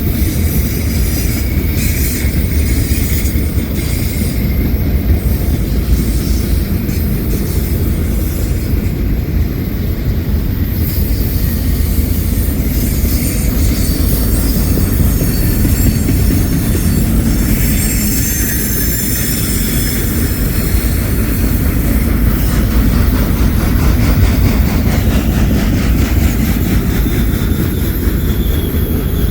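Heavy freight train rolling past close by: a steady loud rumble of wheels on rail, with thin high-pitched wheel squeal coming and going on the curving mountain grade.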